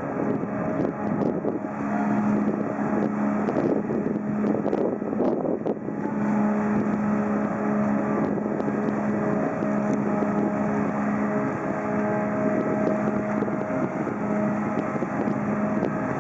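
Cruise ship's engine running with a steady low hum and overtones, rougher and noisier in the first few seconds.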